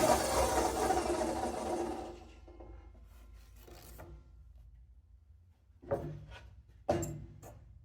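Hitachi C12Y 12-inch table saw running, then dying away about two seconds in as it is switched off. Two sharp knocks follow near the end.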